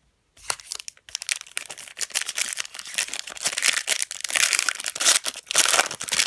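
Trading card pack being torn open, its wrapper crinkling and crackling in a dense run that starts about half a second in.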